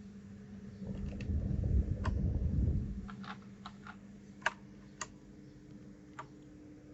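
Keys of a mechanical keyboard being pressed one at a time, giving about seven separate sharp clicks spread irregularly over several seconds. They follow a low rumbling handling noise that lasts about two seconds, starting about a second in.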